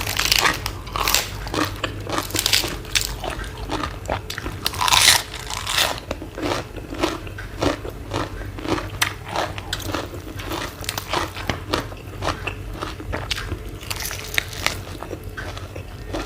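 Close-miked eating: a person biting and chewing crunchy food in a quick, irregular run of crunches. The loudest crunch comes about five seconds in.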